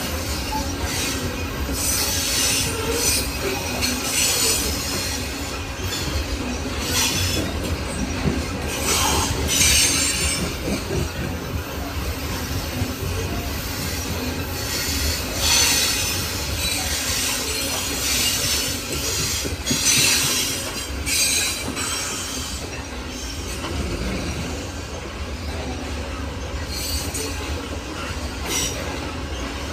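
Loaded coal hopper cars of a long freight train rolling past with a steady low rumble and wheel clatter, while the wheels give off high-pitched squeals that come and go every second or two.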